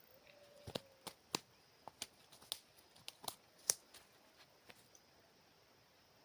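A series of irregular light clicks and knocks, about a dozen over four seconds, as of small objects being handled.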